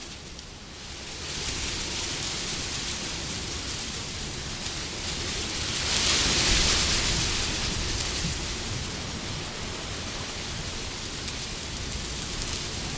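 Wind blowing as a steady hiss that swells into a louder gust about halfway through, then eases off.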